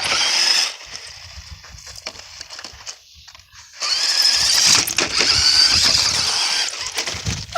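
Toy race car's small electric motor whirring in two spurts: a short one at the start and a longer one from about four seconds in.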